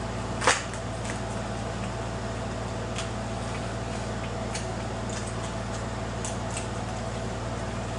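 Eating sounds over a steady background hum: one sharp click about half a second in, then a few faint clicks and squishes of utensils and chewing.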